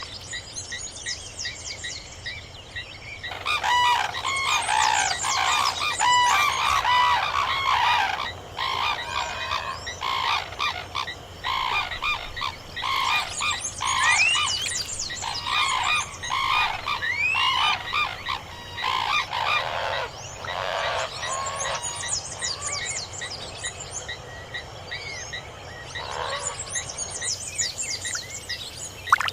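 Many birds calling at once: a thick chorus of overlapping chirps and short rising whistles begins about three seconds in and thins out toward the end.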